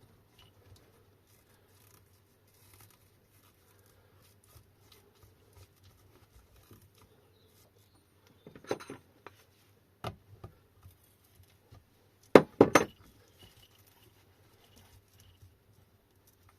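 Hands working on an electric motorbike's hub motor and its wiring: faint scattered clicks and rustles, a brief scrape about nine seconds in, and two sharp knocks close together a little after twelve seconds.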